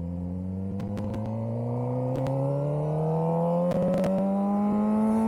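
Suzuki GSX-R600 inline-four sport bike running through a CS Racing aftermarket exhaust, pulling steadily under acceleration with the engine note climbing slowly in pitch. A few short clicks come through on top, about one, two and four seconds in.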